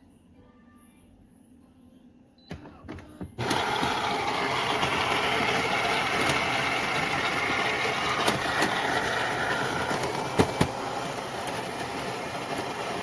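Philips 4300 fully automatic espresso machine starting up with a few clicks, then running steadily for about ten seconds with a few sharp clicks along the way, and stopping abruptly.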